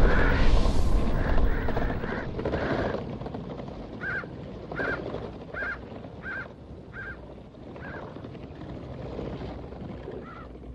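A loud rushing noise fades away over the first few seconds. Then a bird caws over and over, about one short call every three quarters of a second, with another call near the end.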